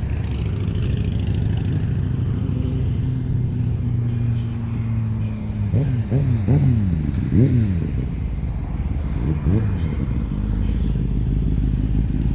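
Motor traffic passing on a main road. About six seconds in, one vehicle accelerates hard, its engine pitch climbing and dropping back with each of several quick gear changes, and it climbs once more near the end.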